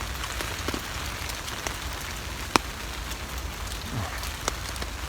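Steady rain pattering on a tarp overhead, with scattered individual drop hits and one sharper tap about two and a half seconds in.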